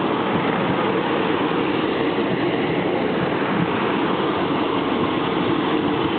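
British Rail Class 150 Sprinter diesel multiple unit (150002) moving past at close range, a steady loud noise of its underfloor diesel engines and wheels on the rails.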